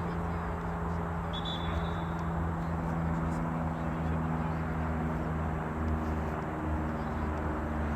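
A steady low hum made of a few held tones over even background noise, with a brief high chirp about one and a half seconds in.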